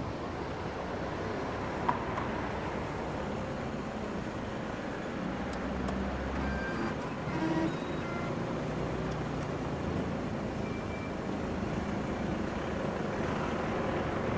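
Car engine idling at a parking exit pay station, a steady low hum with outdoor traffic noise. A few short electronic beeps from the pay machine come about halfway through.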